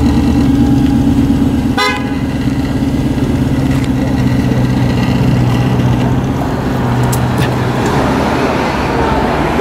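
Maserati coupe's engine running at a low, steady idle, easing off as the car pulls away near the end. A short car horn toot sounds about two seconds in.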